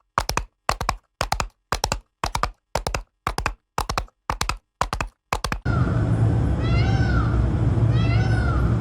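A rapid run of about a dozen short identical sounds, about two a second with silence between. About five and a half seconds in, this gives way to a cat meowing twice: rise-and-fall calls over a steady low hum.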